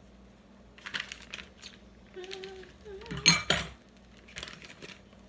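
Kitchen dishes and utensils clattering as they are handled, a few knocks and clinks, the loudest a ringing clink about three seconds in.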